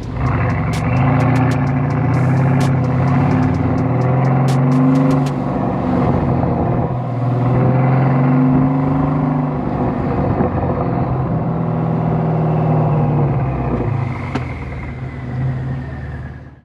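Mercedes-AMG S63's twin-turbo V8 running loud through its modified exhaust, the engine note rising and falling several times as it is driven. A few sharp clicks sound in the first seconds, and the sound cuts off abruptly at the end.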